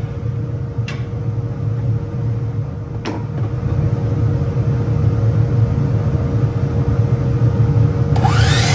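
Bandsaw running steadily with a low hum and a constant tone, with two brief ticks about a second and three seconds in. A whine that rises and falls starts near the end.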